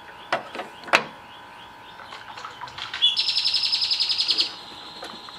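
A few sharp clicks in the first second, then a small songbird's rapid trill lasting about a second and a half, the loudest sound here.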